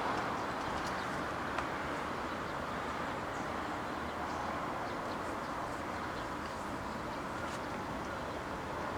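Electric train running, a steady rolling noise that eases off slightly, with a few faint ticks and one sharper click about a second and a half in.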